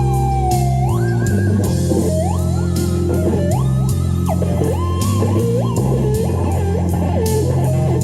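Lead guitar playing a melody with many bent and sliding notes over a backing track with bass and drums.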